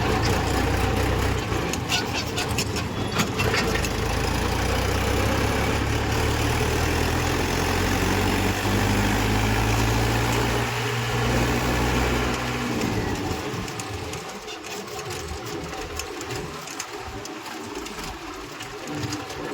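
Diesel engine of a JCB 2DX compact backhoe loader running, rising in pitch for a few seconds, then dying away about two-thirds of the way in.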